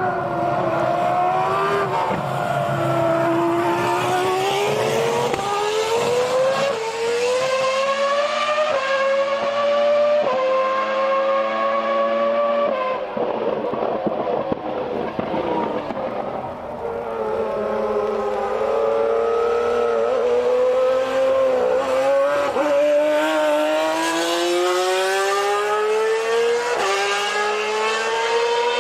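Ferrari Formula 1 car's engine accelerating hard through the gears, its pitch climbing and then dropping sharply at each upshift. It eases off in the middle, then climbs steadily again through the second half.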